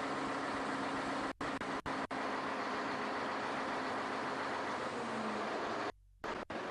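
Steady rushing noise with a faint low hum. It cuts out abruptly several times: three short gaps about a second and a half in, and a longer one of about a third of a second near the end.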